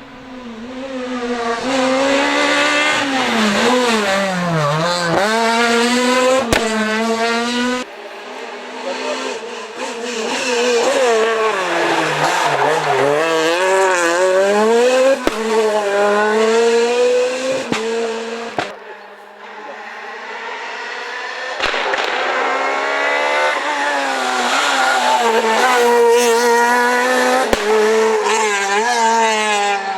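Renault Clio R3 rally cars' engines revving hard through the gears on a stage, pitch climbing and dropping with each shift and lift, several cars coming up and passing by in turn.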